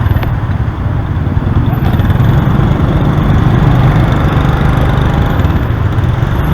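Motorbike running while under way in traffic, a steady, heavy low rumble.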